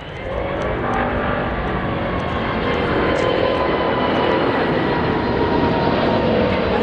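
Four-engined Airbus A380 jet engines at go-around thrust: a loud, steady rush of jet noise with whining tones that slowly fall in pitch as the aircraft passes.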